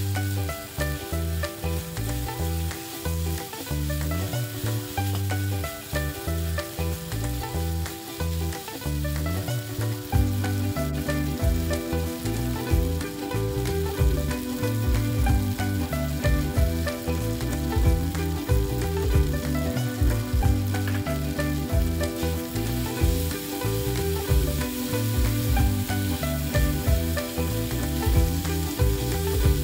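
Sliced beef and onions sizzling in a nonstick frying pan as a wooden spatula stirs them, over background music with a bass line.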